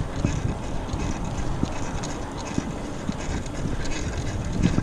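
Wind buffeting the microphone over the rolling noise of a mountain bike ridden on a road, with a few short knocks from the bike.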